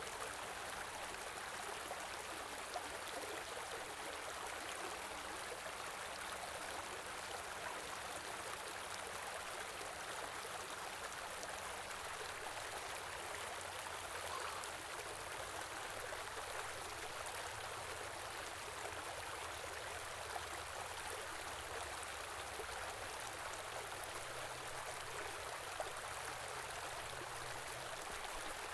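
Small river or stream flowing steadily, a continuous even rush of running water.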